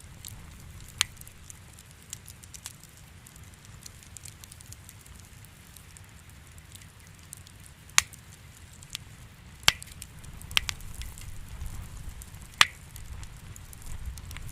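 Wood fire crackling in a fireplace: a low steady rumble of flames under many small crackles, with a few sharp loud pops, one about a second in and several more in the second half.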